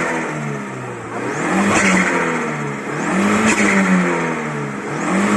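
Audi A3 1.8 turbo four-cylinder engine revved in place about three times, the revs climbing and falling each time, drawing through a small open air filter. Loud.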